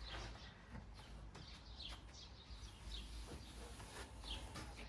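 Faint, scattered bird chirps over a low background hum.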